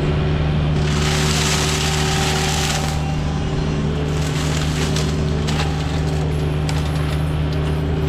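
Mini excavator's diesel engine running steadily under load while its mulcher head grinds brush and wood. About a second in there is a loud burst of wood chipping that lasts about two seconds.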